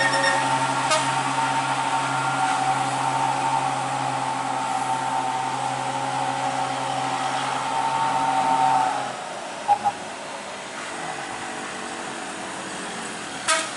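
Old truck's engine running at a steady pitch under load, then dropping away to a quieter rumble about nine seconds in. A couple of short sharp knocks come just after, and another near the end.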